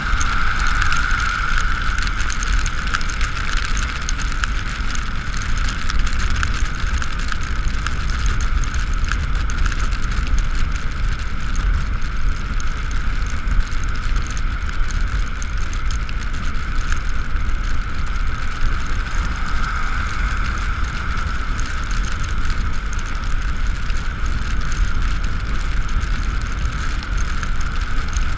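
Ride noise from an Ekoway ML5000 electric scooter on the move: steady low wind and road rumble with a constant high whine running over it, swelling slightly a couple of times.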